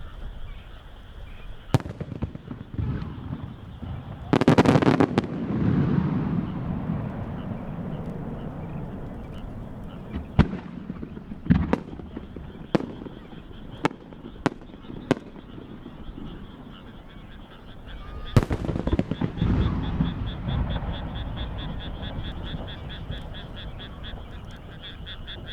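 Large aerial firework shells bursting: a sharp bang, then a crackling burst with a long rumbling echo, a string of separate bangs, and a big boom about two thirds of the way in that rolls on as echo.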